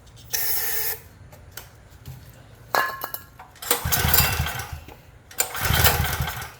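A short hiss of aerosol spray, then two hard pulls on the Craftsman generator's recoil starter about a second and a half apart, each cranking the small engine with a rumble. It does not catch: a no-start despite priming with starting fluid.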